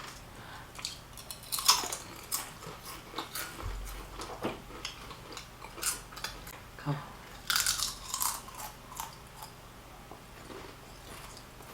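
Close-up eating sounds: crisp bites and crunchy chewing of food, coming in irregular clusters of sharp crackles.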